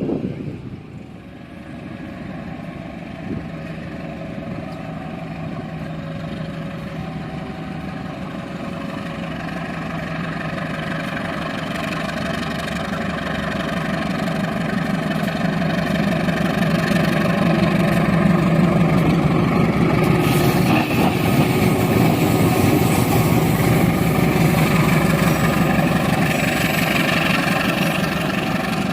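Diesel locomotive engine approaching, its steady drone growing louder for about eighteen seconds and then holding loud, with a broad hiss joining about twenty seconds in.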